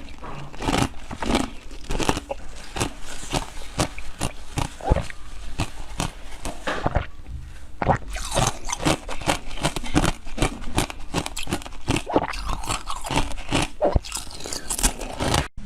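Close-miked eating: a person biting into and chewing frozen treats, with dense, irregular crunching and crackling throughout. The sound cuts off abruptly just before the end.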